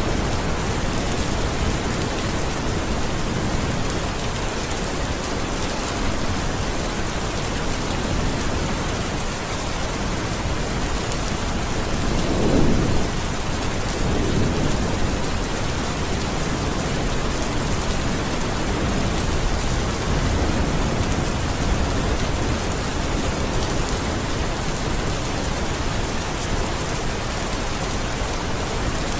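Steady heavy rain, with a low roll of thunder rumbling up about halfway through and a fainter one a few seconds later.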